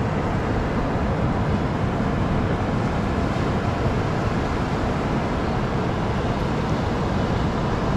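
Steady rushing noise of ocean surf breaking along the shore, mixed with wind on the microphone.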